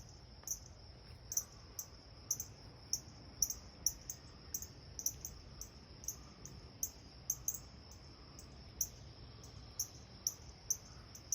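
A cricket chirping in short, very high pulses, about two a second, over a faint low background hum.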